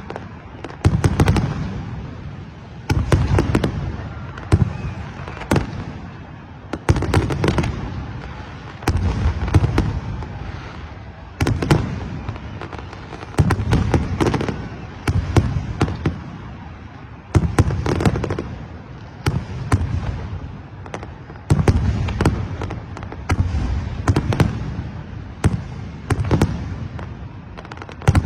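Fireworks going off in quick succession, a loud boom about every two seconds, each rumbling away, with crackling pops in between.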